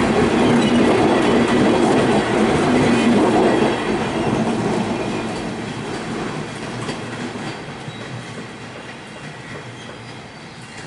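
Bangladesh Railway Benapole Express passenger coaches rolling past on the track. The sound is loud until the last coach goes by about four seconds in, then fades steadily as the train moves away.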